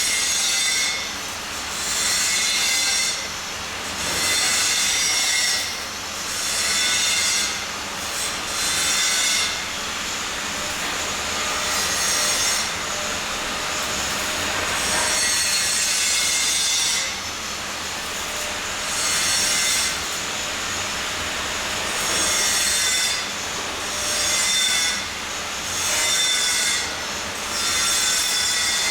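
Metal being scraped or sawn in repeated strokes, each a second or two long with short gaps, with a high squeal in each stroke.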